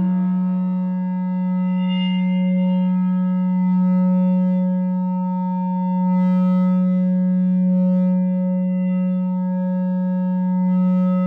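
No-input mixer feedback drone run through an effect pedal: a steady low electronic tone with fainter higher overtones that swell and fade slowly.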